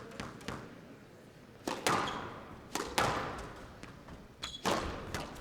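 Squash ball rally: the ball is struck by rackets and smacks off the court walls in sharp thuds about a second apart, each ringing briefly in the hall.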